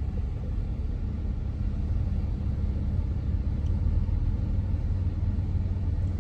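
Steady low rumble in the cabin of a new car with its engine running.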